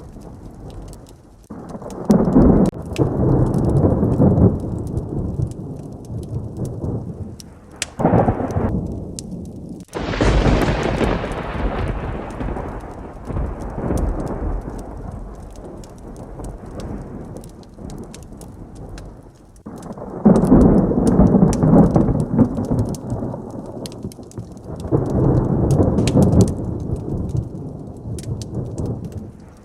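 Heavy thunderstorm: steady rain under several rolls of thunder, the sharpest a sudden clap about ten seconds in that rumbles away over several seconds.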